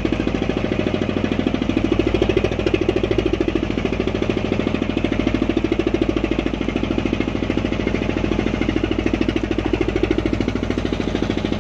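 Fishing boat's engine running steadily with a rapid, even chugging beat.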